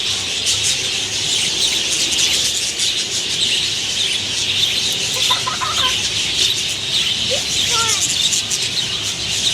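A flock of parakeets chattering non-stop, a dense wash of high chirps, with a few lower whistled calls about halfway through.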